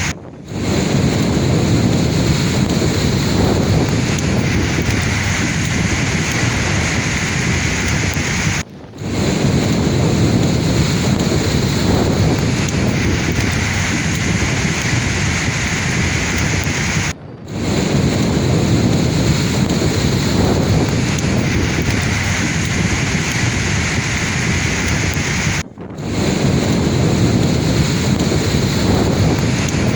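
Sea waves washing on a shore in a steady, heavy rush of surf. The sound dips out briefly four times, about every eight and a half seconds.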